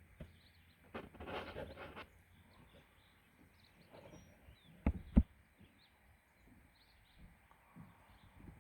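Small birds chirping faintly, with a short noisy rustle about a second in and two sharp knocks in quick succession about five seconds in.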